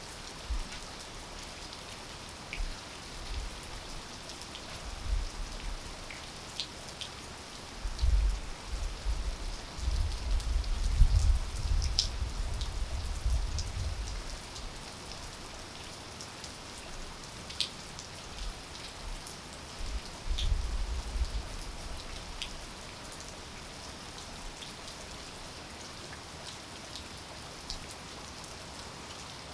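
Steady rain falling, with scattered sharp drips close by. A low rumble swells several times, loudest from about 8 to 14 seconds in and again around 20 seconds.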